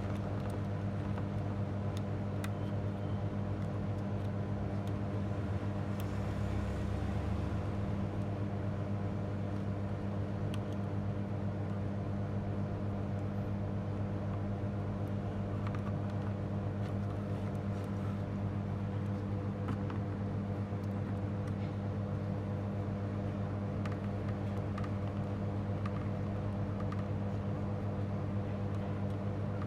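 Steady electrical hum at mains frequency, with faint scattered ticks over it.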